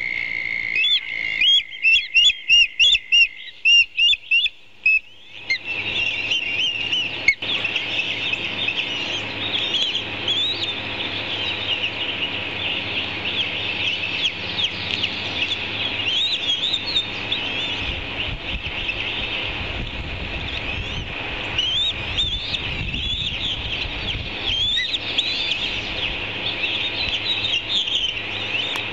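High-pitched chirping from birds of prey at the nest while chicks are fed fish. First comes a quick run of evenly spaced chirps for about five seconds, then a dense, continuous chatter of chirps for the rest. A steady low hum runs underneath.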